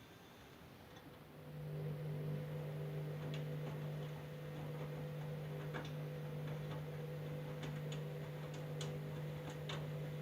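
Candy washing machine's motor starting about a second and a half in and running with a steady hum, with a few scattered sharp clicks, as the drum turns to redistribute an unbalanced load before spinning.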